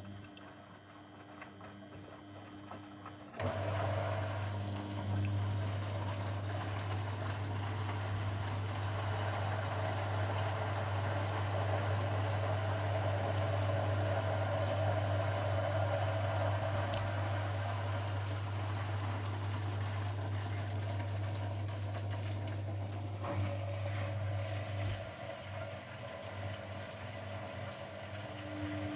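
Grundig washing machine's drain pump running with a steady hum and the rush of water being pumped out, getting much louder about three seconds in.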